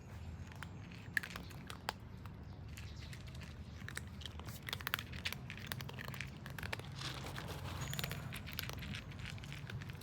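Cats eating: irregular small crunches, clicks and chewing sounds over a low steady hum.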